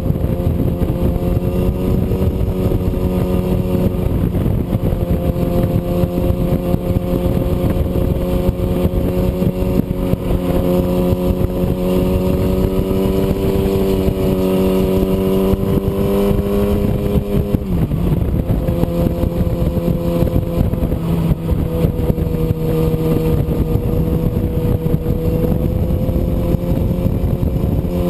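An engine running with a steady droning hum over heavy rushing noise. Its pitch creeps up over several seconds, then dips sharply about seventeen seconds in and settles a little lower.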